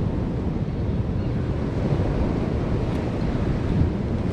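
Wind buffeting the microphone over a steady rumble of sea and boat noise.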